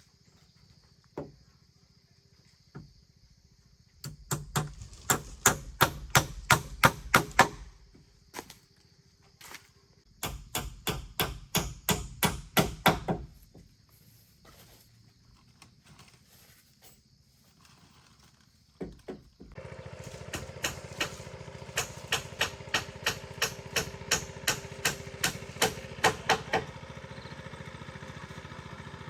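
Hammer blows in quick runs of about three or four strikes a second, three times over, as in nailing down floorboards. About two-thirds of the way in, a steady motor hum starts and keeps going under the last run and after it.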